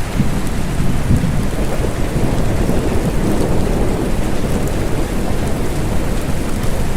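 Steady rain with a low rumble of thunder rolling through. The rumble is strongest in the first second or so and swells again about midway.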